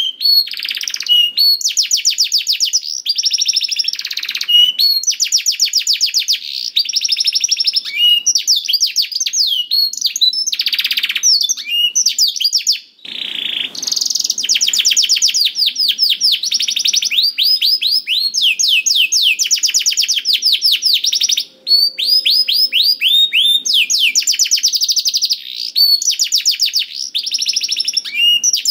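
Domestic canary singing nonstop: long fast trills of rapidly repeated sweeping notes, one phrase running into the next with only a couple of brief breaks.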